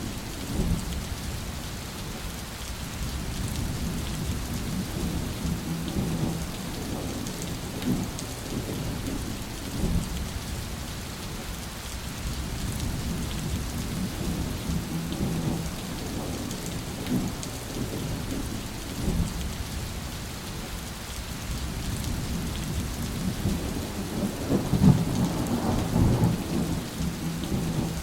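Steady rain falling during a thunderstorm, with low thunder rumbling underneath. A louder roll of thunder builds near the end.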